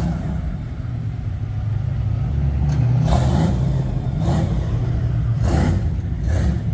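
A motor vehicle engine running steadily with a low hum, with four short swishes spread over the second half.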